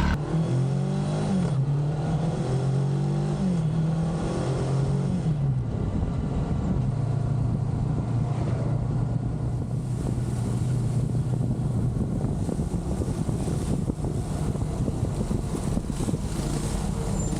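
Honda CB500 S parallel-twin motorcycle engine pulling through the gears, its note stepping up and dropping back several times in the first few seconds, then cruising at a steady pitch, with wind rushing over the microphone.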